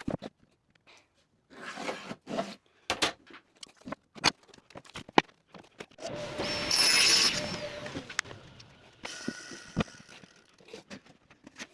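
Workshop handling of wooden drawer parts: scattered knocks and clicks of boards being moved and set down. About six seconds in, a short burst of a power tool runs for a second or so and is the loudest sound.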